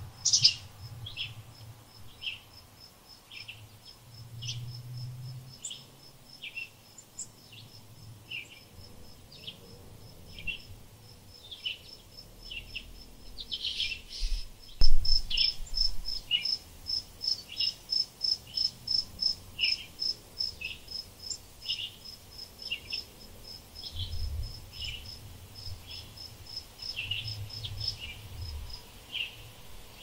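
Small birds chirping, short calls repeating about once a second over a steady run of fast, even, high-pitched pulses, about three or four a second, that swell louder midway.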